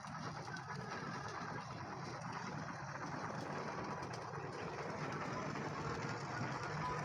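Steady running noise of a motor or engine with a low hum and faint whine, growing slightly louder toward the end.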